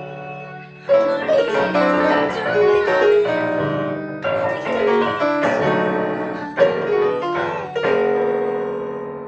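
Piano ensemble playing. A held chord dies away, then a run of quick notes starts about a second in, and a final chord is struck near the end and left to ring and fade.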